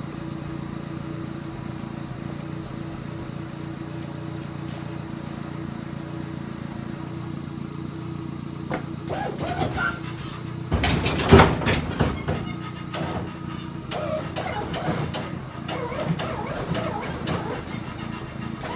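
A truck's small two-litre petrol engine runs steadily at idle. From about nine seconds in, irregular louder knocks and rushing noise come over it, with the loudest burst about eleven seconds in.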